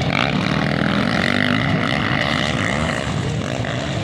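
Motocross dirt bike engines revving, their pitch rising and falling as the bikes accelerate and shift around the track.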